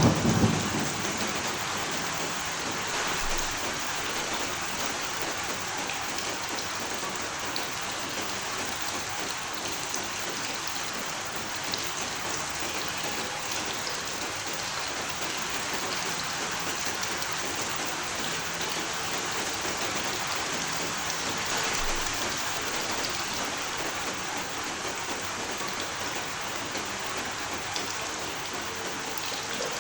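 Steady rain falling, an even hiss with scattered drop ticks. The tail of a low thunder rumble dies away right at the start.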